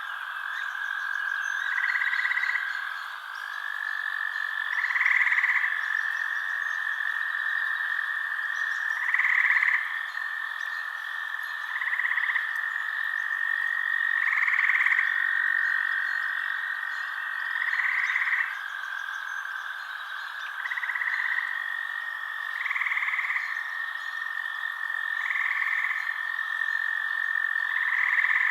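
Night chorus of frogs: a steady high trill, with a louder croaking call breaking in every two to four seconds.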